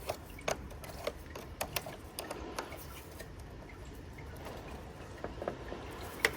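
Hand tools being handled in a workshop: irregular light clicks and clinks, a few a second, with a sharper one near the end, over a steady background hiss.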